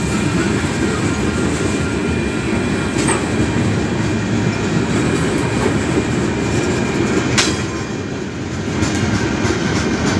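Freight train of tank cars and covered hopper cars rolling past, with a steady rumble and clatter of wheels on rail and a sharp clank about 7 seconds in.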